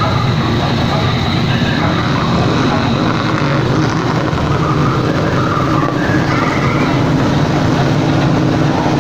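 Motorcycle engines running together in a passing parade, a loud, steady din.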